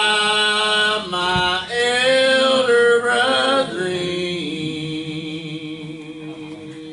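Church hymn singing: voices hold long notes that change pitch every second or so. A last long note fades away over the final few seconds.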